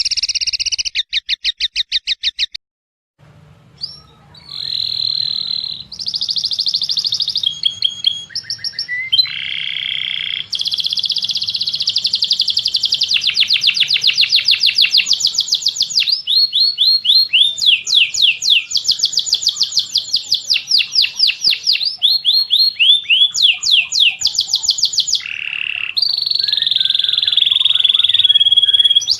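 Songbird song in fast trills and series of rapid chirps, pitched high and changing phrase every second or two, with a brief break about three seconds in; a faint low hum lies under the song after the break.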